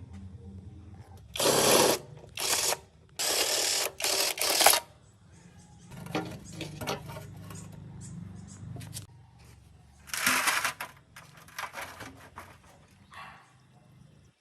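Several short, loud hissing bursts, each under a second long, over a faint low hum: four in the first five seconds and another about ten seconds in.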